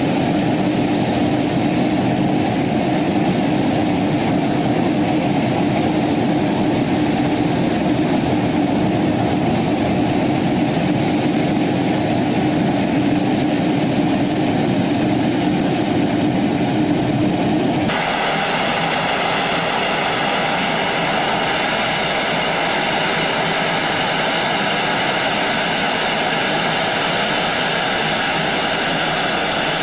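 Jet airliner engines running: a steady low rumble with a constant hum, which changes abruptly about two-thirds of the way through to a hissing jet whine with several high steady tones.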